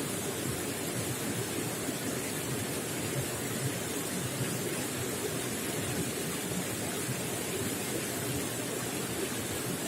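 Running water gurgling and splashing in a steady, unbroken rush.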